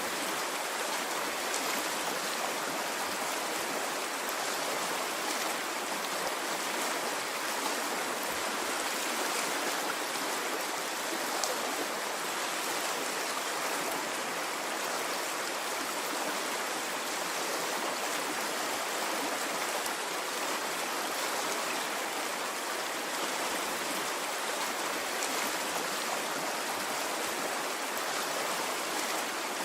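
Stream water flowing steadily, a continuous rushing splash with small faint ticks of water over stones.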